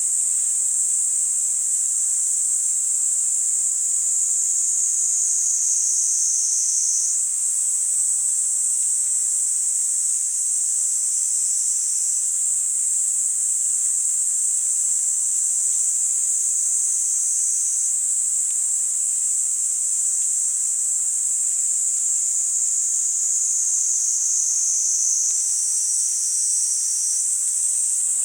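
Kaempfer cicadas (niiniizemi) singing: one continuous, high, shrill buzz with no break. A second, slightly lower-pitched buzz joins and drops out several times, overlapping the first.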